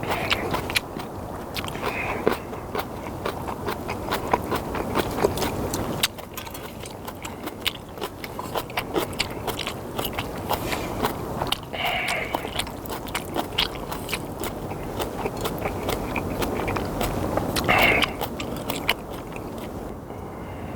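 A person slurping and chewing instant ramyeon noodles, with wet mouth smacks and many small clicks and scrapes, a few louder slurps along the way.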